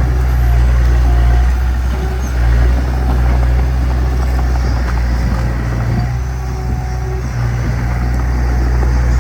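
Heavy diesel engine of earthmoving machinery running steadily, a low drone that holds nearly constant.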